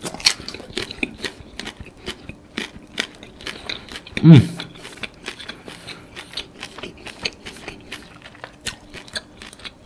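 Close-up chewing of a fried prawn, with many small crisp crackles and wet mouth clicks. About four seconds in comes a short, loud hummed 'mm' from the eater.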